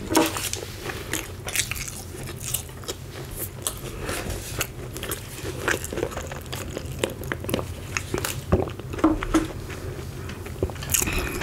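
Close-miked chewing of crispy KFC fried chicken: a steady string of short, sharp crunches and bites.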